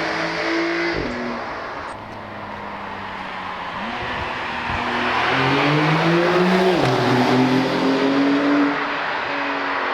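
Porsche 911 (992) Targa 4 GTS twin-turbo flat-six under acceleration, its note climbing through the revs and dropping at upshifts about a second in and just before seven seconds. It goes quieter near the end as the throttle eases.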